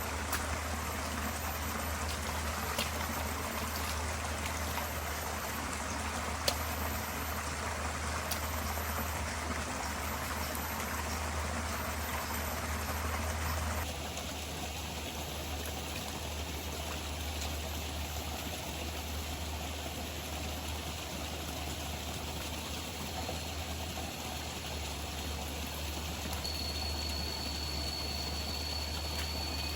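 Forest stream running, a steady rush of water. About halfway through it drops abruptly to a quieter level, and near the end a steady high insect call joins in.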